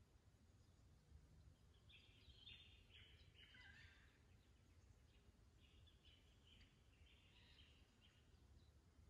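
Near silence with faint wild bird calls: a few short clusters of calls about two seconds in and again around six seconds in, over a faint low steady rumble.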